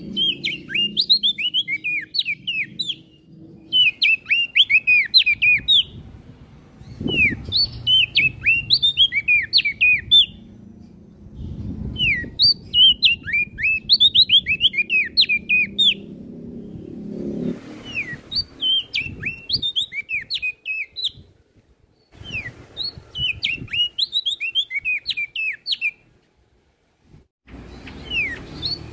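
A prenjak daun songbird singing repeated phrases of quick, steeply dropping chirpy notes. Each phrase lasts two to four seconds, with short pauses between them, over a low background rumble.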